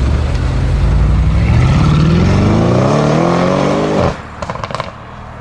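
Porsche 997 Turbo's twin-turbo flat-six with a Soul competition exhaust accelerating hard, its pitch climbing steadily for about three seconds. About four seconds in the throttle snaps shut and the sound drops off suddenly, followed by a brief flurry of sharp pops and flutters before it settles to a low idle-like hum.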